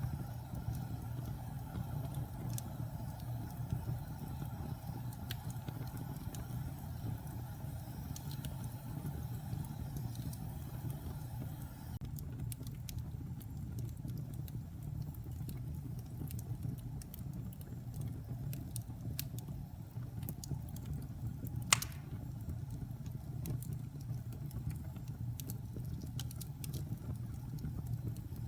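Wood fire burning in a fireplace: scattered small crackles over a steady low rumble of flames, with one sharp, louder pop about three-quarters of the way through.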